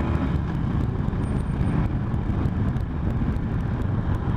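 Motor vehicle running on the road: a steady, loud low rumble.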